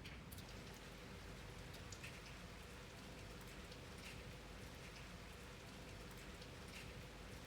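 Faint rain falling, individual drops ticking irregularly against a surface over a steady soft hiss.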